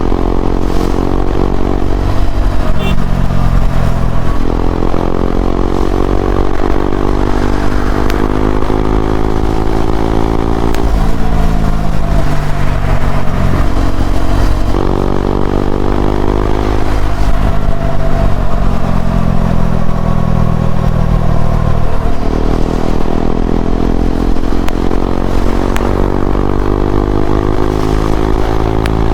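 KTM Duke 390's single-cylinder engine through an Akrapovic slip-on exhaust, riding: the engine note repeatedly rises under throttle and then drops back, again and again, as the bike accelerates and shifts.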